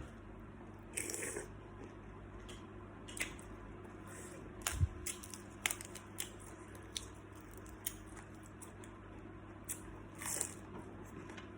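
Someone eating salt-baked shrimp close to the microphone: scattered crunches and clicks of shell and bites, with two brief rustles about a second in and near the end.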